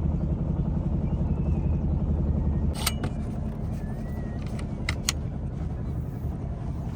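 Sailboat's motor running at low speed, a steady low rumble that drops a little in level about three seconds in. A few sharp clicks or knocks sound around three and five seconds in.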